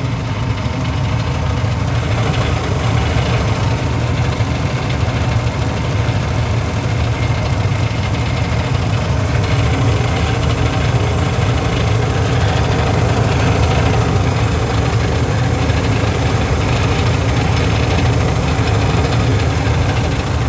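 Furnace draft inducer motor running with a steady, low, rough noise: the unusual noise the draft is making.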